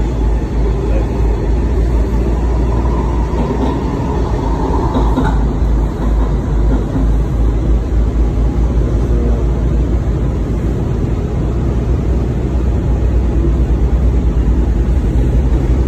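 Steady running noise of a moving WMATA Metrorail train heard from inside the car: a deep, continuous rumble of wheels on track, a little louder over the last couple of seconds.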